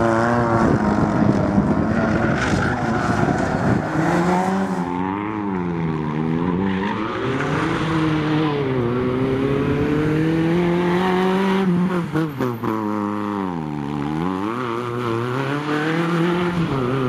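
Rally-prepared hatchback's engine driven hard through a tight slalom course, revving up and dropping back again and again as the driver accelerates and lifts between cones.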